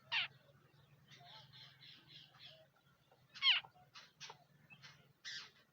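Babblers calling: several short, sharp notes that sweep down in pitch, the loudest about a second into the clip and again about three and a half seconds in, with a run of softer quick notes between them.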